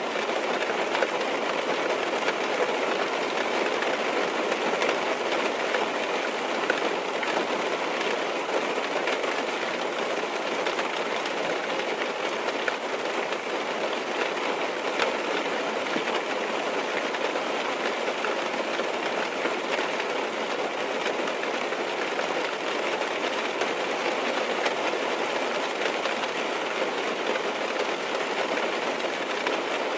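Steady rain drumming on a car's roof and windows, heard from inside the cabin as a dense patter of small drops that never lets up.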